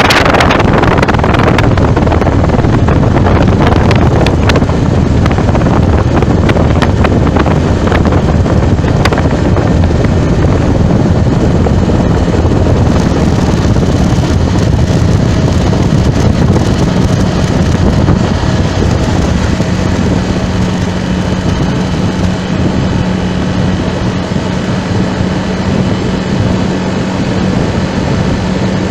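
Wind blowing over the microphone of a moving vehicle, mixed with steady engine and road noise in traffic; a low steady hum comes in for the second half.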